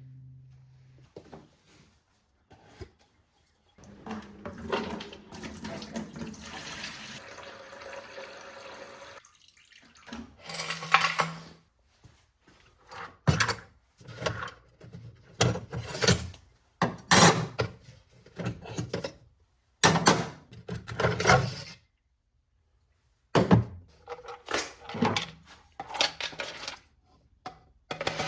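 Metal hand-plane parts being handled in a liquid soaking bath. First comes a few seconds of liquid sloshing and running, then a long series of separate clanks and clinks as the metal parts knock against each other and the tub.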